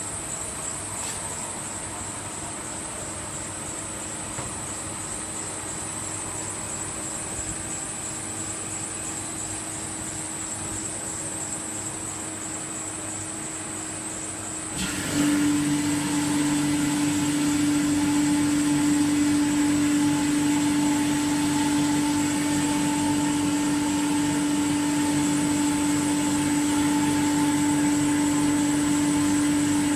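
CNC machine running with a steady hum and a high whine. About halfway through it suddenly gets louder as another motor starts, adding a strong steady low hum that holds.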